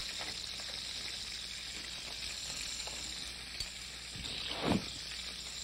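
Pieces of lobster in their shells sizzling steadily in hot oil in a sauté pan as they sear. A faint utensil click past the middle and a short swooping sound near the end.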